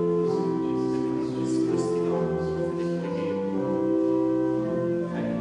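Organ playing a hymn or voluntary in sustained chords, the chords changing about once a second.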